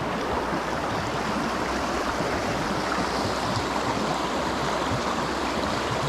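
Creek water rushing steadily over rocks and around a fallen tree, a continuous even rush.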